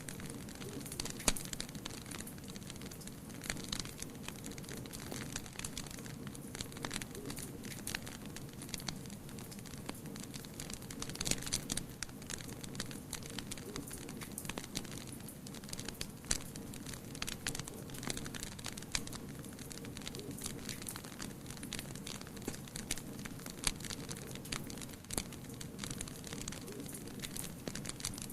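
Wood fire crackling steadily, with frequent irregular sharp pops and snaps over a low steady rush.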